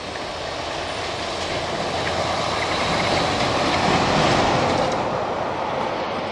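Freight train rolling on the rails: a steady rumble of cars on the track that swells to its loudest about four seconds in and then eases off.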